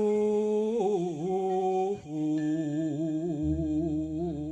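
A solo voice singing a slow Javanese tembang line, holding long notes with wavering ornaments and a short breath about two seconds in. A low steady hum joins about three and a half seconds in.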